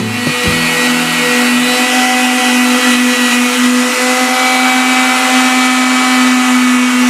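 A motor running steadily: a constant, unchanging hum over a whirring hiss, starting abruptly at the beginning.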